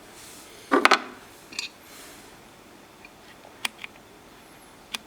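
Rough opal knobbies clicking and clacking against each other as they are handled: a quick cluster of clacks about a second in, then a few single sharp clicks.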